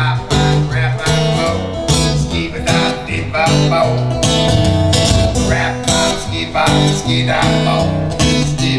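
Live folk song instrumental break between verses, led by guitar over moving bass notes.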